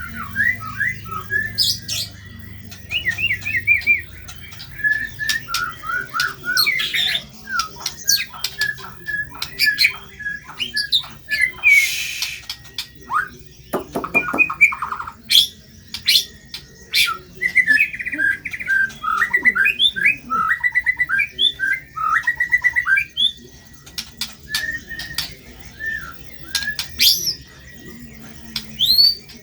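White-rumped shama (murai batu) singing a long, varied song of whistles, rapid trills and glides, broken by a harsh scratchy note about twelve seconds in and a lower buzzy call soon after: the rough-material song used to tutor other songbirds.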